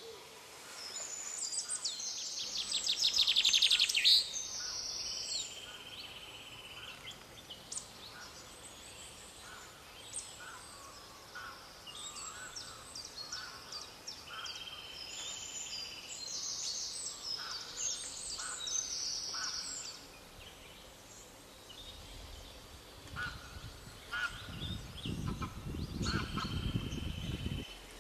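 Birds calling, with short high calls repeated again and again, loudest in the first few seconds. A low rumble joins in for the last few seconds.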